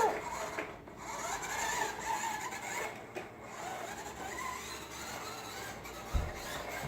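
Toy trucks being pushed along the floor, their wheels and bodies rubbing and scraping unevenly.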